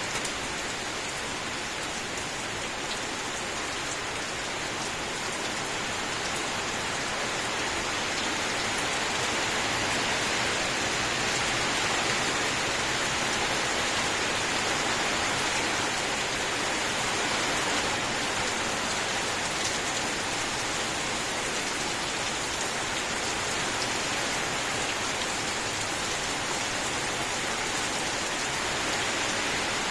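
Steady rain falling, a continuous even hiss of many drops, swelling slightly and easing again.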